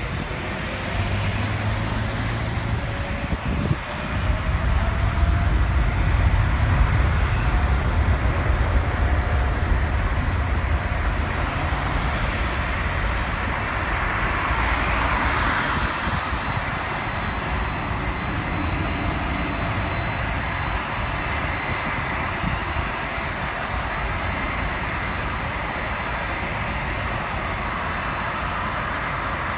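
Boeing 777-300ER's twin GE90-115B turbofan engines at takeoff power, a deep rumbling roar that is loudest several seconds in and then slowly fades.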